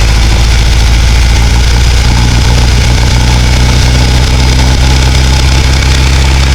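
Sterndrive boat engine idling in forward gear, a steady low drone whose note shifts slightly about two seconds in.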